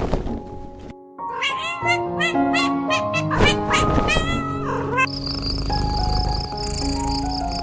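A cat meowing, several short meows in quick succession over background music. From about five seconds in, crickets chirp in a steady pulsing rhythm under the music.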